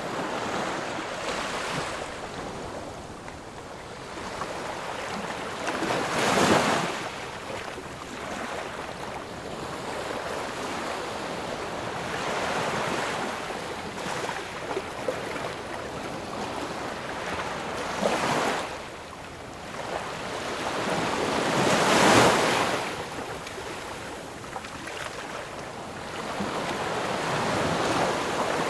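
Sea surf: waves washing in and out in a continuous rush that swells and ebbs. A wave breaks loudly about a quarter of the way in, and a bigger one breaks about three-quarters of the way through.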